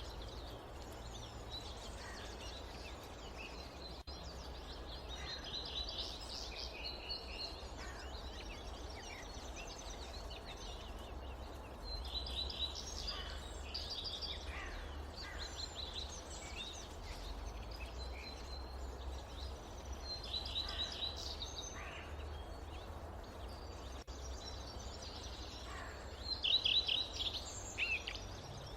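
Several forest birds calling and chirping, with short trills and repeated quick notes coming and going; the loudest is a run of rapid chirps near the end. Underneath is a steady low rumble and hiss of forest ambience.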